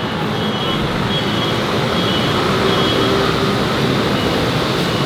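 Steady city road traffic: a continuous rumble of passing vehicles, with faint short high beeps coming and going.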